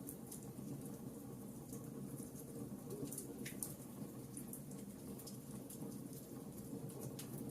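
Campfire burning with a steady low rustle of flames and frequent short, sharp crackles and pops from the burning wood.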